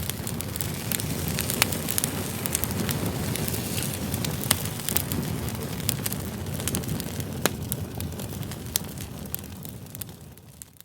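Campfire of split firewood burning, with a steady low rumble and frequent sharp pops and crackles. It fades out near the end.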